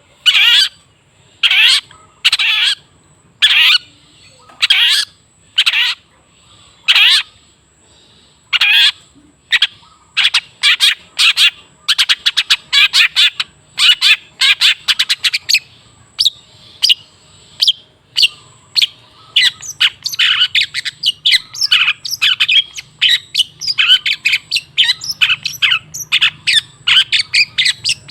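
Long-tailed shrike giving harsh, scratchy calls. They come about once a second at first, then speed up into rapid chattering runs from about ten seconds in.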